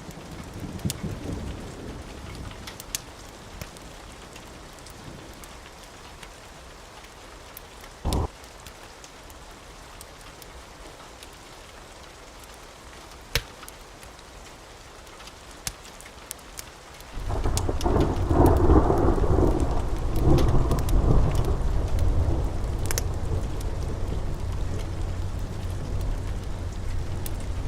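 Steady rain with occasional sharp crackles and pops from a fire. About two thirds of the way through, a loud, low rolling rumble of thunder rises and carries on to the end.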